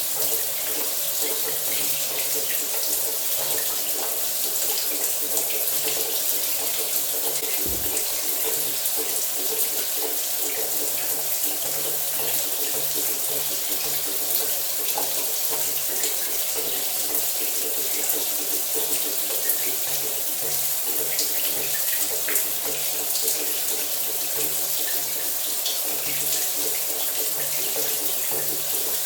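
Shower running steadily: a continuous hiss of water spray falling, with a faint low hum under it.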